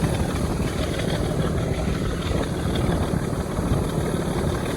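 Diesel locomotive engine working hard under full power, a loud steady deep engine sound that holds without a break.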